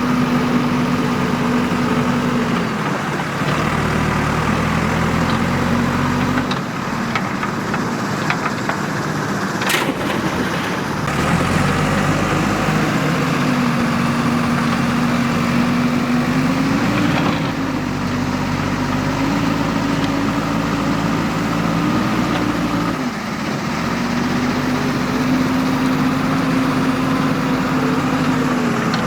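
Diesel engine of a JCB 3DX backhoe loader at work, its pitch dropping and rising again every few seconds as the load changes. There is a sharp clank about ten seconds in.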